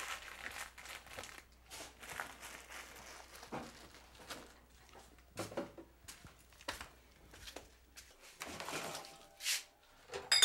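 Irregular light rustling and crinkling with scattered small knocks and clicks, like goods and packaging being handled. A brief louder swish comes about nine and a half seconds in.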